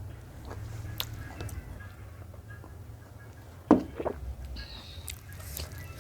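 Close-up eating sounds while working freshwater snails (ghonghi) out of their shells: a few small clicks, then a louder short mouth or shell sound just under four seconds in, followed by a smaller one, over a low steady hum.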